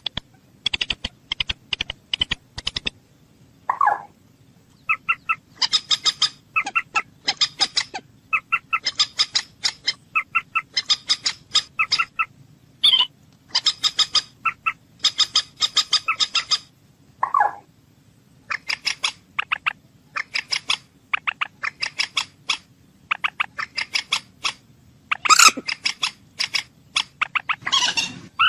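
Moorhen calling: repeated bursts of rapid, sharp clucking notes, each run lasting under a second, with a few lower single calls between them.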